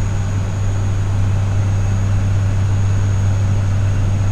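ATR 72 twin turboprop engines and propellers running at climb power, heard in the cockpit as a loud, steady drone with a deep constant hum and an even rushing noise.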